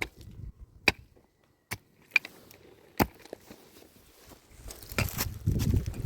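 Several separate sharp knocks and clicks, then a louder stretch of scraping and shuffling with more small knocks from about five seconds in.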